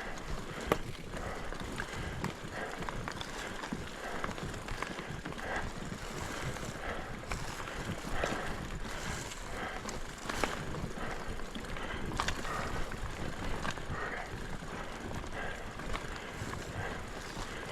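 Orbea mountain bike ridden over dirt singletrack: tyres running on the trail with rattles and knocks from the bike over bumps, and a sharp knock under a second in. Wind on the microphone throughout.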